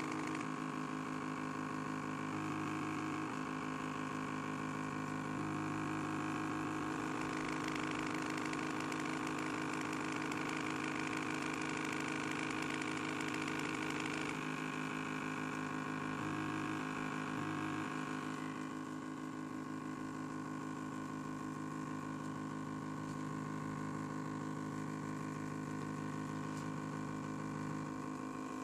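KH56KM2U stepper motor running, a steady humming whine made of several tones. Its tone shifts a few times, and it drops a little in level for the last third.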